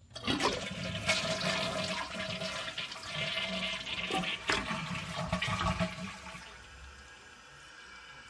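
2007 Kohler Wellworth toilet flushing: a sudden loud rush of water through the bowl for about six seconds, which then dies down to a quieter steady hiss as the tank refills.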